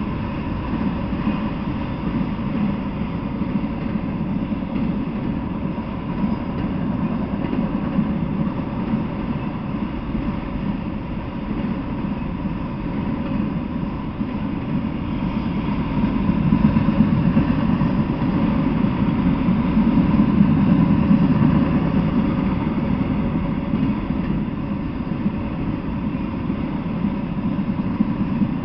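Freight train of autorack cars rolling past, a steady rumble of wheels on the rails that swells for several seconds past the middle and then eases.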